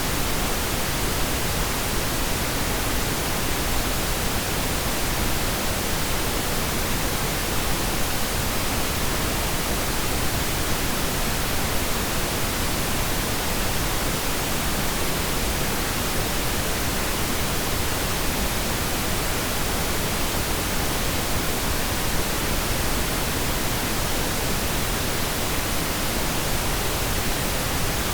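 Steady pink noise: an even, unchanging hiss spread across all pitches, with no individual events.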